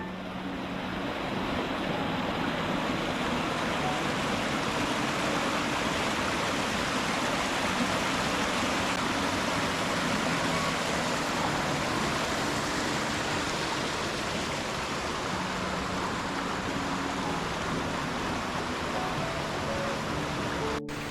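Rushing stream water: a steady, even rush that fades in over the first two seconds and holds, with a brief break near the end.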